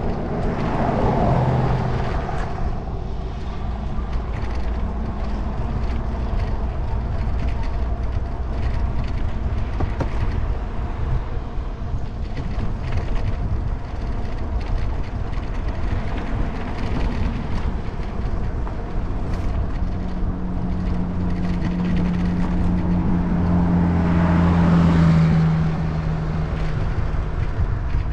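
Steady wind and road rumble from riding a fat-tire e-bike along a paved road. Near the end a motor vehicle passes, its hum swelling to the loudest point of the stretch and then fading.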